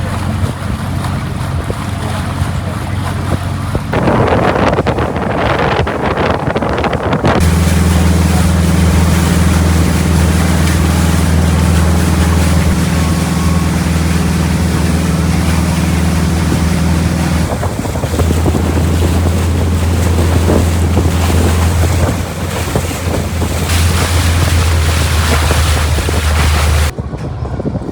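Motorboat engine running with a steady low hum, with wind buffeting the microphone and water rushing past the hull. The sound changes abruptly several times, as at cuts between shots.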